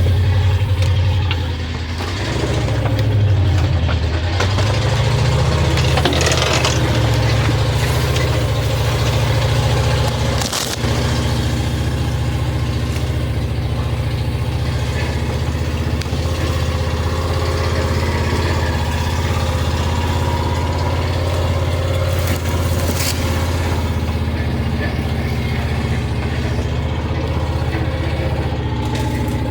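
Truck engine running with a low, steady drone. Its pitch dips and climbs again in the first few seconds, then holds steady. A sharp knock comes about ten seconds in.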